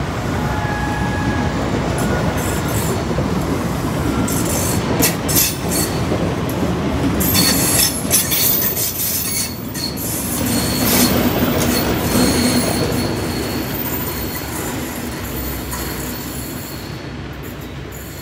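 A train running past on the rails, its wheels squealing in thin high tones through the middle, the sound fading away near the end.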